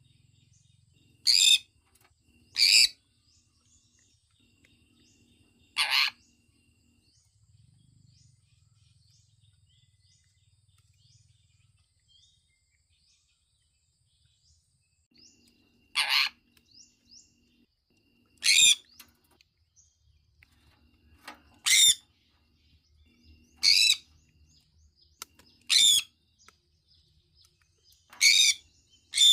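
Sun conure giving short, sharp chirping calls one at a time, about nine in all and spaced unevenly. A quiet stretch of about ten seconds falls in the middle.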